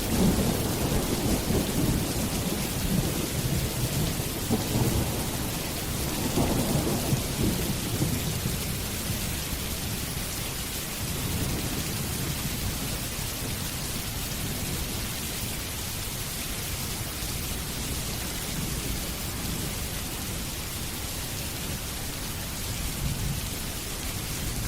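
Steady heavy rain with rolling thunder: a low rumble swells at the start and again several seconds in, then fades, leaving the rain hiss.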